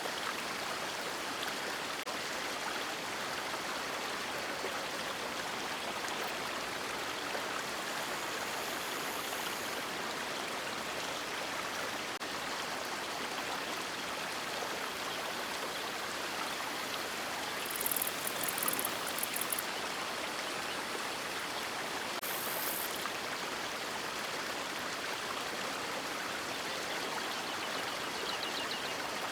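River water rushing steadily, an even hiss. There is a brief crackle of high ticks once about two-thirds of the way in, and short high hisses a little before and after it.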